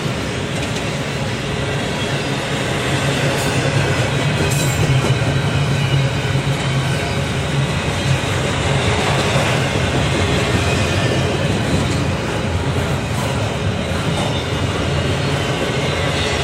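A train running past on the rails, making a steady, loud rumble of wheels over a low hum.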